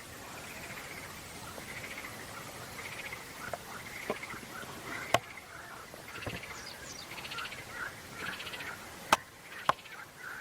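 Birds chirping and frogs calling in short, repeated trills, with three sharp clicks about halfway through and near the end.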